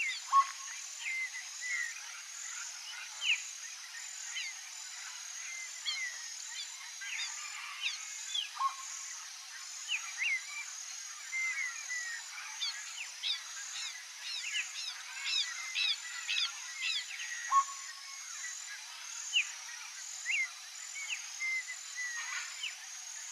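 Several birds calling in a chorus of short, quick chirps and whistled notes, over a faint, steady, high-pitched pulsing background.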